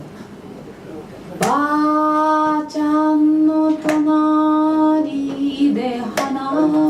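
A woman's voice singing a long held note that starts about a second and a half in, then shorter wavering notes near the end. A few sharp clicks cut across it.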